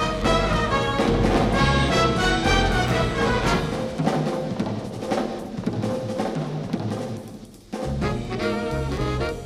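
Jazz band playing, with brass, drum kit and bass. About three quarters of the way through, the bass and drums drop out and the music falls away briefly before the full band comes back in.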